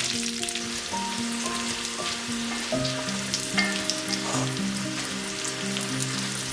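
Fresh tortelloni sizzling and crackling in hot oil and butter in a frying pan, a dense hiss of spitting fat, while a wooden spatula pushes them around. Soft background music plays beneath.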